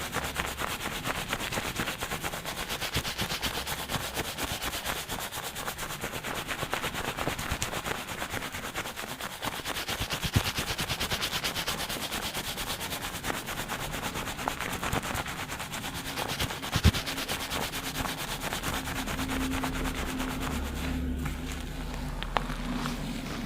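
Fingers scrubbing a lathered scalp very fast during a shampoo, a dense, rapid crackle of foam and hair, recorded binaurally close to the head. The scrubbing thins out near the end.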